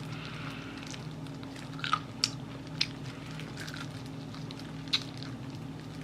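Close-up biting and chewing of Korean fried chicken, with a few sharp crunches about two, three and five seconds in, over a steady low hum.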